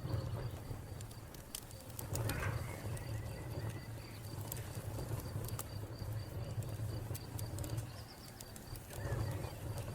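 Wood fire crackling with scattered sharp pops over a low steady rumble, while a cricket chirps in a steady pulsing trill throughout. A bird gives a short call about two seconds in.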